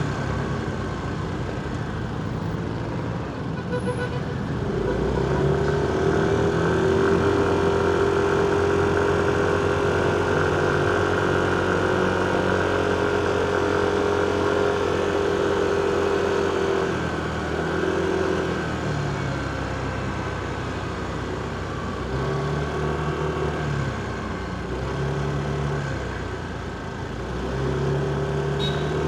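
Motorcycle engine running under way in city traffic, its pitch going up and down as the rider speeds up and slows, over the steady noise of surrounding vehicles.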